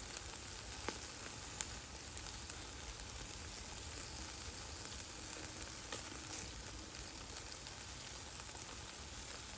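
Food sizzling in a frying pan, a steady hiss with a few sharp pops.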